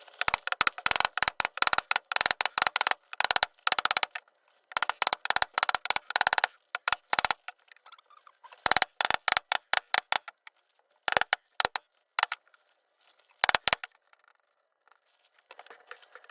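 Ratchet wrench clicking in runs of rapid clicks with short pauses between them, the runs growing shorter and sparser after about halfway.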